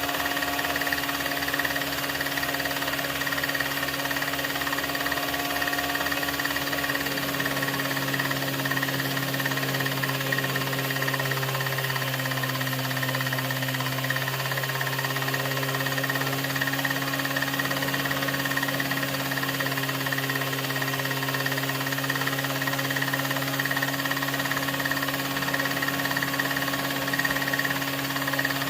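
A steady mechanical hum with several constant tones over a hiss. A regular low pulsing fades out about seven seconds in, leaving a stronger, even low drone.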